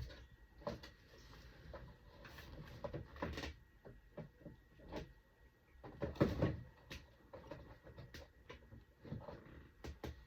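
Household rummaging: cupboard doors, containers and bottles knocked and shifted in a string of irregular clunks and rustles, the loudest a little past halfway.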